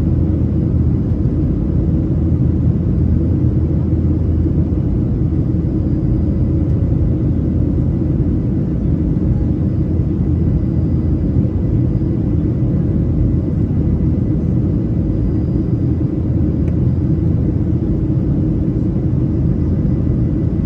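Steady low drone of a Boeing 737-700's CFM56-7B jet engines and the airflow over the fuselage, heard from inside the passenger cabin in flight.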